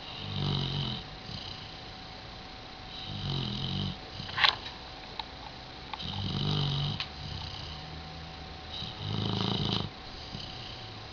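A sleeping dog snoring, four snores about three seconds apart. A short, sharp sound about four and a half seconds in is the loudest moment.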